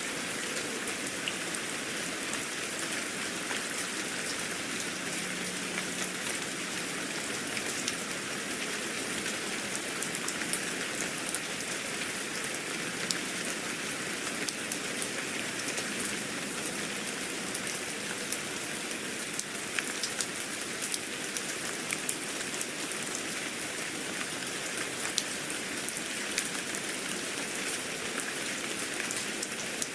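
Steady rain falling on a surface, an even patter with many small drop ticks.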